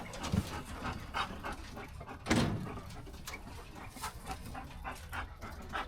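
A dog snuffling close by, among scattered rustles and small knocks, with one louder rasping burst about two and a half seconds in.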